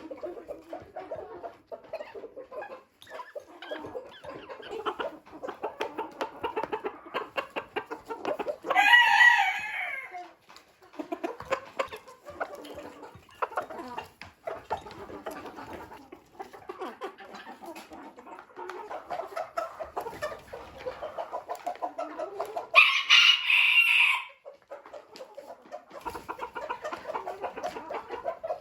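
A flock of chickens clucking steadily. Two louder, higher calls of about a second each stand out, about nine seconds in and again about twenty-three seconds in.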